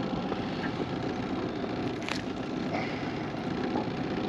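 Boat motor running steadily, a low even drone, with a faint tick about two seconds in.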